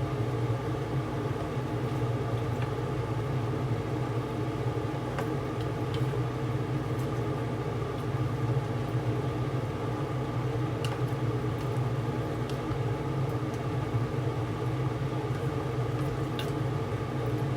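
Kitchen range hood exhaust fan running over a gas stove: a steady motor hum. A few faint light clicks now and then.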